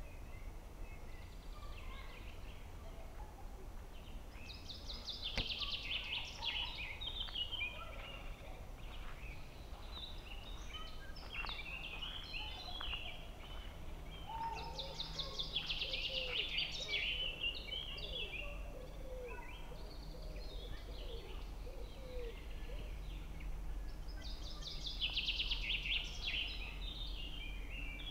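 Songbirds singing in a forest. One bird repeats the same fast, high trilled phrase about every ten seconds, while other birds chirp between its phrases over a steady low background rumble.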